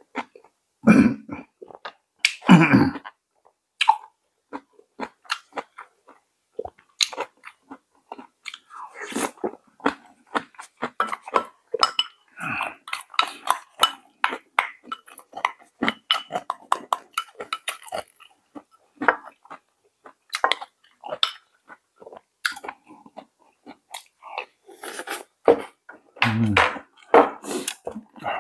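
A person chewing a mouthful of pork jjageuli stew up close, a dense run of small wet clicks, with a few louder mouthfuls near the start and near the end.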